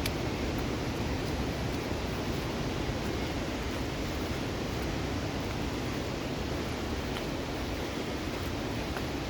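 Steady rushing of a fast mountain river in monsoon flow, an even roar with a deep rumble and no change throughout.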